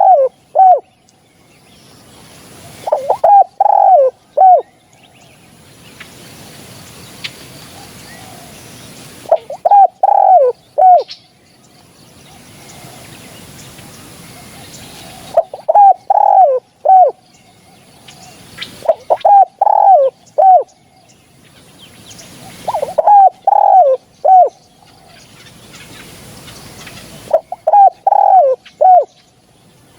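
Spotted dove cooing: loud phrases of three or four falling coos, repeated every few seconds.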